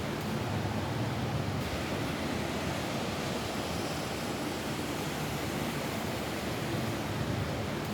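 Steady rain falling on a roof, an even hiss with a low rumble and no separate drops standing out.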